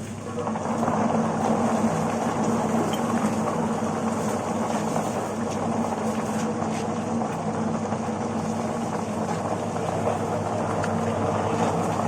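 Melinjo skin-peeling machine running steadily: a motor hum under a dense rushing noise, growing louder about half a second in.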